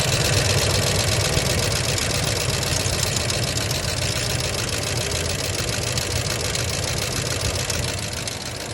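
1990 Ford F-150's 5.0 V8 idling with a rapid, steady tapping noise from the engine, a noise the owner cannot identify and first took for lifters but now doubts.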